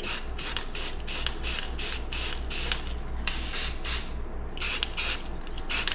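Aerosol spray paint can sprayed in a quick run of short hissing bursts, pausing about four seconds in before a few more bursts. The paint is being put on the chainsaw intake manifold's gasket surface so it can be pressed onto gasket paper as a stamp for the gasket outline.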